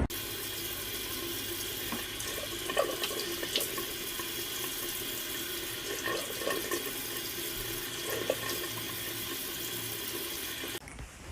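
Water running steadily from a tap into a sink, with a few short, faint squeaky sounds over it. The running water cuts off suddenly near the end.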